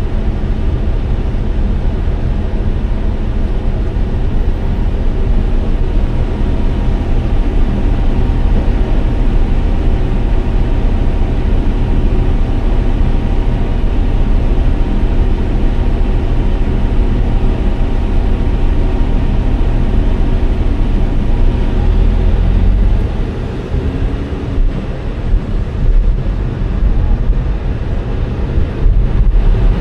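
Steady low rumble of a vehicle driving: road and engine noise, dipping briefly about three-quarters of the way through.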